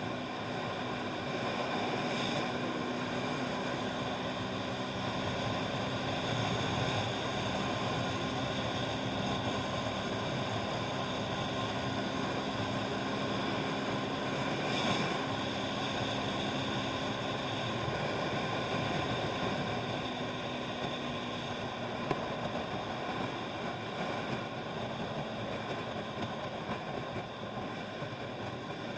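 Motorbike running at a steady speed: a steady engine hum under an even hiss of wind and road noise.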